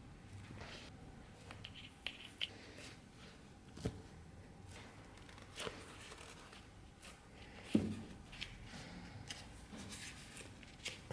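Light handwork sounds: scattered taps, clicks and scrapes of tools and material being handled, with one louder knock about eight seconds in.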